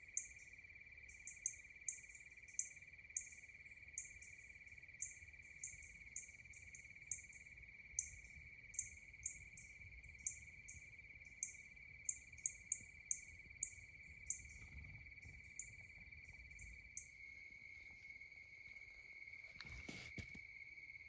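Faint evening insect chorus: a steady high-pitched trill, with short high chirps about once a second over it. A brief rustle comes near the end.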